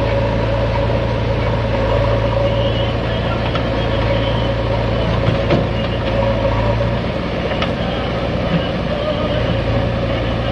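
Tractor diesel engine running steadily under load while pulling a fully loaded trolley of soil. Its deep low drone eases about seven seconds in and comes back near the end, with a couple of sharp clicks in the middle.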